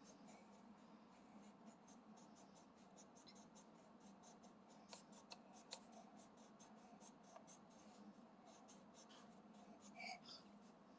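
Faint, quick scratchy strokes of a child colouring on paper in a colouring book, with a slightly louder tick or two about halfway through.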